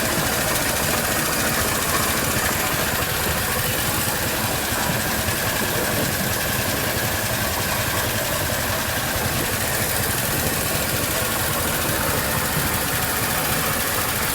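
A small boat engine running steadily at an even speed.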